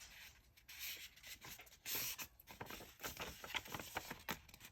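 Paper rustling, with soft irregular scrapes and taps as sheets of printed paper are handled and shuffled on a desk.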